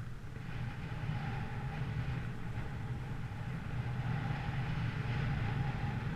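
Engine running steadily with a low hum, under a rushing hiss that swells twice, about a second in and again near the end.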